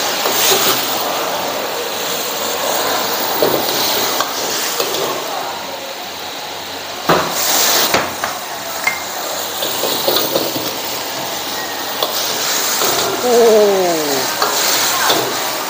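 Food sizzling and frying in a pan while being stirred, a steady hiss with a few sharp knocks around the middle and a short falling tone near the end.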